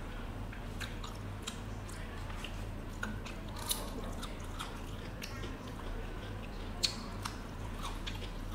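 Close-miked chewing and biting of food, with many small crisp clicks and mouth sounds and two sharper bites, about a third and four-fifths of the way through, over a steady low hum.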